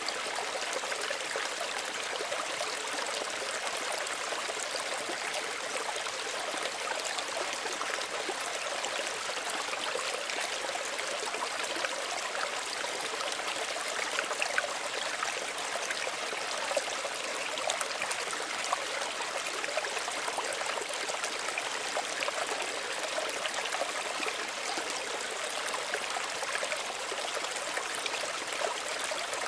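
Small stream running steadily over stones, a gentle trickling with small splashes, mostly high and light with little low rumble.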